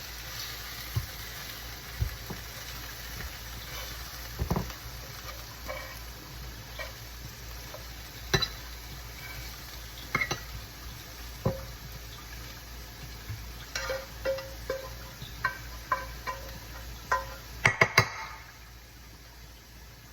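Chicken sizzling in a frying pan, with scattered taps and clinks of a utensil against the pan and a quick run of louder clanks near the end.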